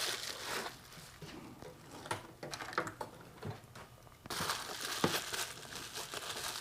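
Packaging crinkling and rustling as parts are handled, with scattered light ticks and taps. The rustle gets denser about two-thirds of the way through.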